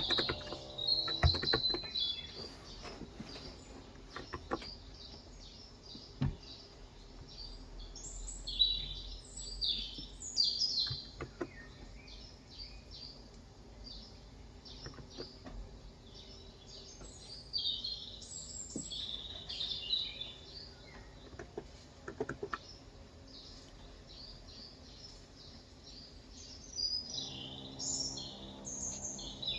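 Small birds chirping and calling repeatedly, with a few scattered keystrokes on a Cox Endeavor electrostatic capacitive (contactless, 35 g) keyboard.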